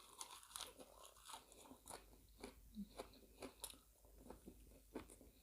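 Faint close-up chewing of crunchy fresh vegetables, with irregular crisp crunches a few times a second.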